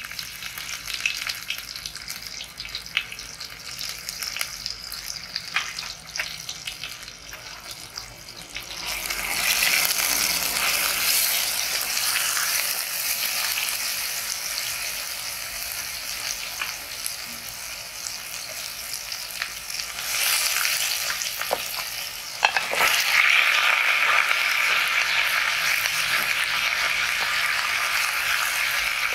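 Ginger-garlic paste frying in hot oil in a steel pressure-cooker pan, with a steel spoon scraping and clicking against the pan. The sizzle grows louder about nine seconds in, then jumps to a loud, steady sizzle a little past twenty-two seconds. Near the end, goat trotters are frying in the pan and being stirred with a wooden spatula.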